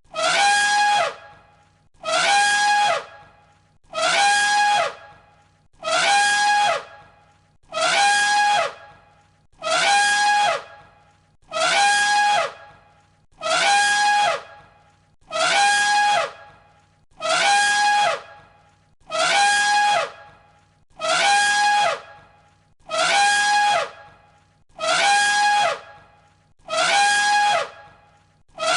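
Elephant trumpeting, the same call looped over and over, about one every two seconds. Each call lasts about a second, with a held high note and a second note falling in pitch.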